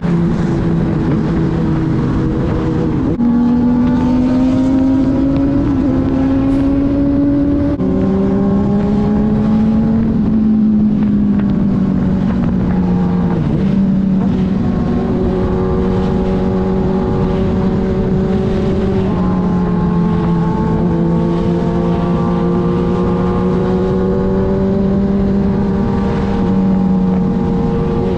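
Inline-four sportbike engine running at highway speed over a steady rush of wind. Its pitch jumps up about three seconds in, drops back a little before eight seconds, then rises and falls gently for the rest.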